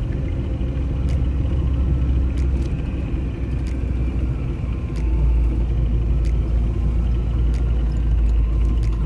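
Off-road vehicle driving: a steady low engine and road rumble that grows louder about five seconds in, with scattered faint clicks.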